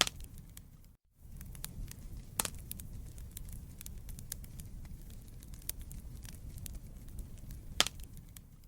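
Wood fire crackling in a fireplace: a steady low rumble of flames under a stream of small sharp crackles, with louder pops at the start, about two and a half seconds in, and near the end. The sound cuts out for a split second about a second in.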